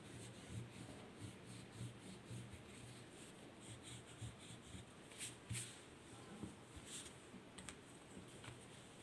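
Faint, repeated strokes of a drawing tool on paper, about two a second, with a few sharper taps or clicks near the middle.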